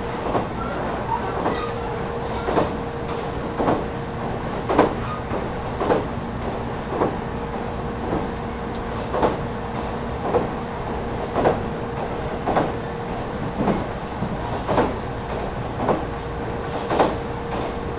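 Interior running sound of a JR 313 series electric train car (KuMoHa 313-4) at steady speed: a constant hum under regular wheel clicks over rail joints, about one a second.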